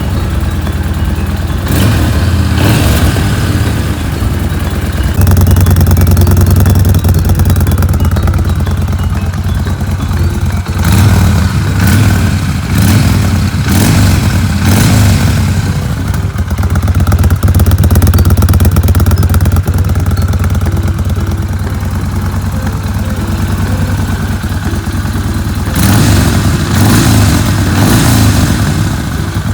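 Yamaha BOLT's air-cooled V-twin running through an aftermarket METALFIELD muffler, idling with several throttle blips that briefly raise the revs.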